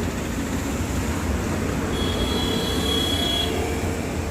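Road traffic passing close by: a steady low rumble of vehicles, with a thin high whine for about a second and a half in the middle.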